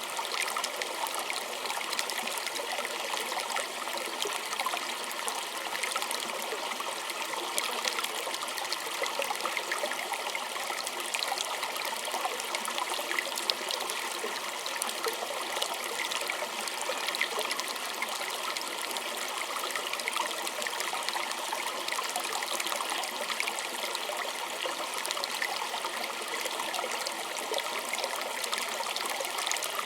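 Small stream flowing and trickling over stones, a steady splashing babble with many small droplet plinks.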